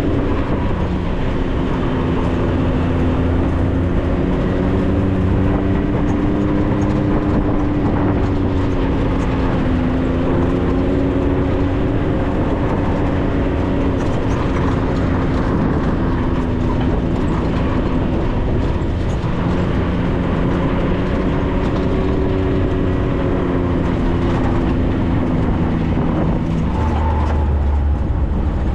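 4x4's engine running under way, its pitch rising and falling a little with the throttle, over steady tyre and road noise.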